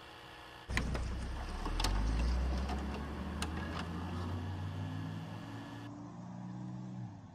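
Steady hiss and hum, then about a second in a sudden deep rumbling drone with a few sharp clicks and low sustained tones, fading slowly and stopping near the end: a title-card intro sound effect.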